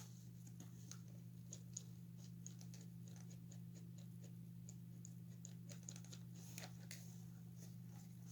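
Faint, irregular small clicks and taps from hands working on the plastic parts of an animatronic toy being taken apart, over a low steady hum.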